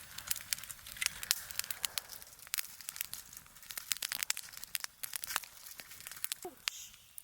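Wood campfire crackling, with irregular sharp pops and snaps from the freshly lit fire.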